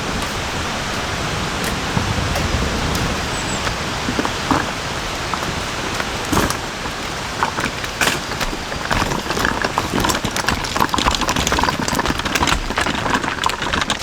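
Steady rain falling, with individual drops ticking sharply on a surface, the ticks coming thicker in the last few seconds.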